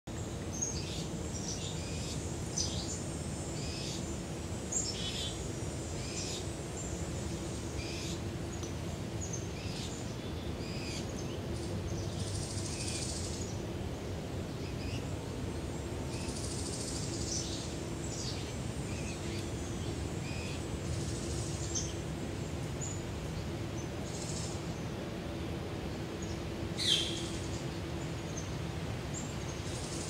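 Birds chirping in short, scattered high calls over a steady low hum and background rumble, with one louder call sweeping downward near the end.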